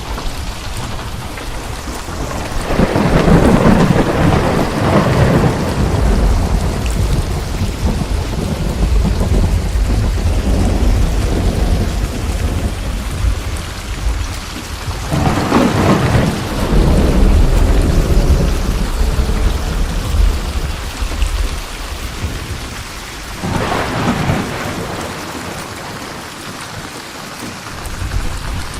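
Steady heavy rain with rolls of thunder: a long rumble swells about three seconds in and fades, another about halfway, and a shorter one near the end.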